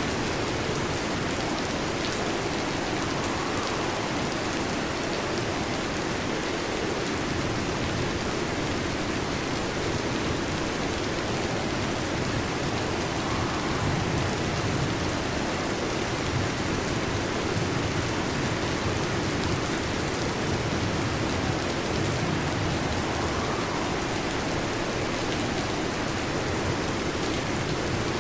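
Heavy rain drumming steadily on a metal roof.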